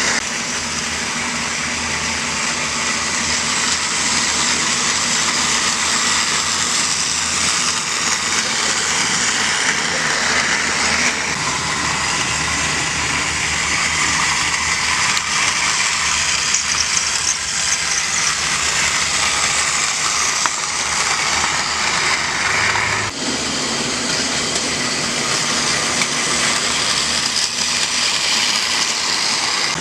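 Battery-powered TOMY Trackmaster Mighty Mac toy engine running around plastic track with its coaches: a steady whir of the small motor and wheels, with a brief dip about two-thirds of the way through.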